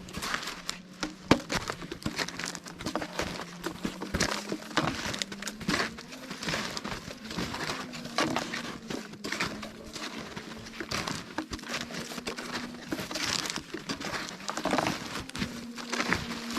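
Snowshoes crunching through fresh snow, step after step, at a walking pace. A faint steady low hum runs underneath.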